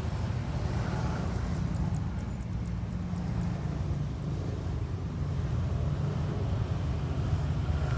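Steady low wind rumble buffeting the microphone outdoors, with a few faint high ticks about two seconds in.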